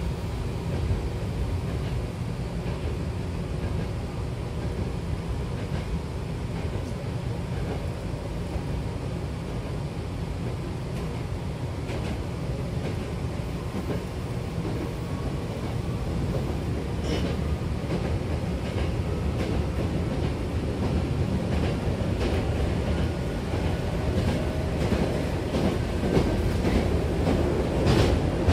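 Hankyu 6000-series electric train car running, heard from inside the cabin: a steady rumble of wheels and running gear that grows a little louder later on, with scattered clicks of the wheels over rail joints and a few sharper ones near the end.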